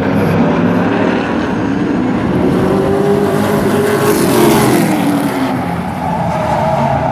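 Race truck engines running hard at speed around a short track. About three to five seconds in, one engine note rises and then falls as a truck passes, with a surge of hiss.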